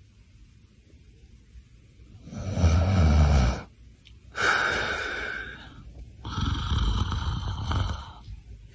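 A dog snoring: three long, noisy breaths one after another.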